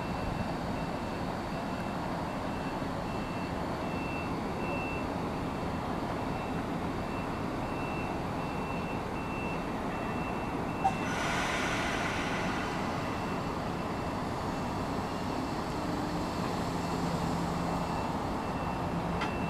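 NJ Transit bi-level commuter train, with an ALP-46 electric locomotive, standing at the platform with a steady hum of its running equipment. A high beep keeps sounding on and off, and about halfway through a sharp click is followed by a short burst of air hiss.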